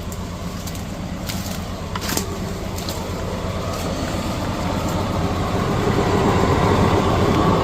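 50 hp tractor running with its PTO-driven flail mower spinning, mulching prunings and grass, growing steadily louder. A few sharp ticks come through in the first couple of seconds.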